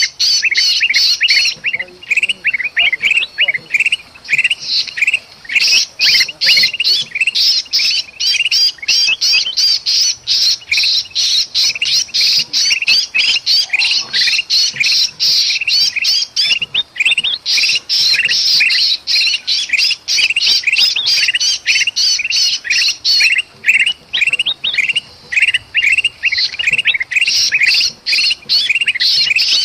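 Bulbuls (kutilang emas) giving a dense, fast chattering of harsh, squawking alarm and distress calls, several birds at once, with a few short lulls. These are the agitated and trapped-bird calls used to lure other birds in.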